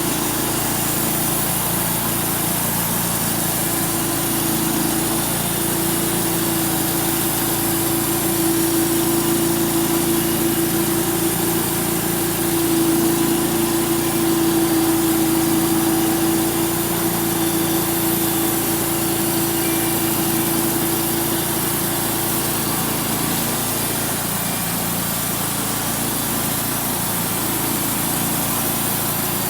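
A homemade band sawmill cutting through a walnut log, its engine running steadily under load through a double V-belt drive while the blade saws. The engine's hum strengthens through the middle of the cut and eases off in the last several seconds.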